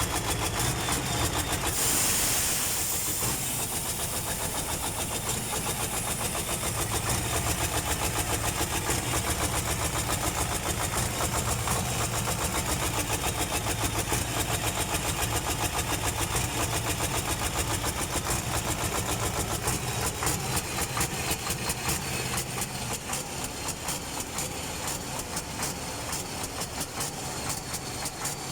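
Mercedes-Benz Actros truck's diesel engine running with a steady pulsing beat, with a brief hiss about two seconds in. The pulses turn more distinct and slightly quieter over the last several seconds. The truck has a hard-starting problem, which the owner links to repaired injector nozzles and pump injectors and which has left it smoky and misfiring.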